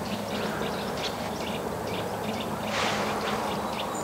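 Small birds chirping in short, scattered calls over a low steady hum, with a brief soft rush of noise about three seconds in.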